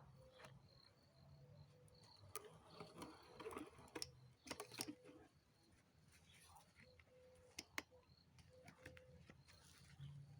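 Faint scattered clicks and knocks, a few in quick clusters, over a quiet background with a faint steady tone.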